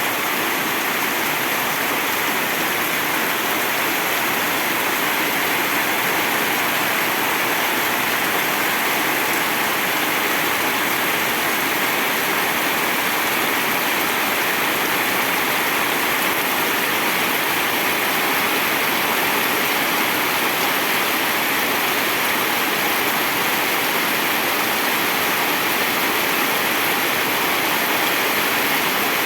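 Heavy rain falling steadily, a dense unbroken hiss with no let-up.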